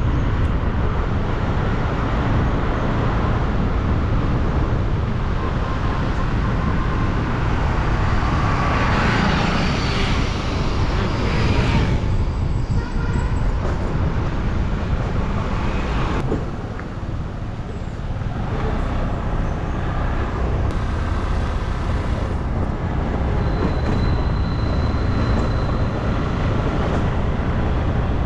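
Steady wind rush and road noise from riding along a road, with traffic noise. The noise swells about nine seconds in and dips briefly near the middle.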